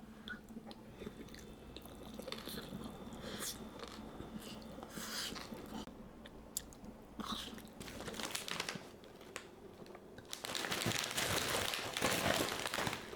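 A person chewing and biting into crunchy snack food, with short crisp crunches. About ten seconds in, dense crinkling starts and gets louder.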